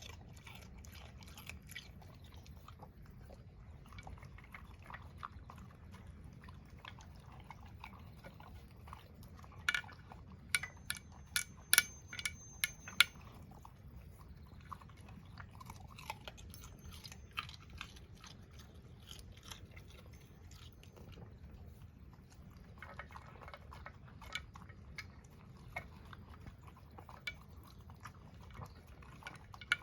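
A dog chewing and crunching, with small clicks throughout and a cluster of louder, sharp clicks and knocks about ten to thirteen seconds in.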